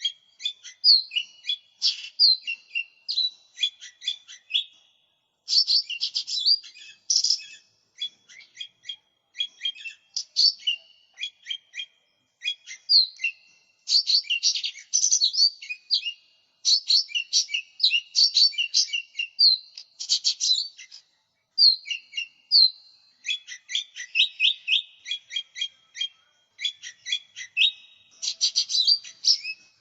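Mini green leafbird ('cucak ijo mini') singing in full song: a fast, continuous run of sharp chirps, trills and clear whistled notes, with brief pauses between phrases.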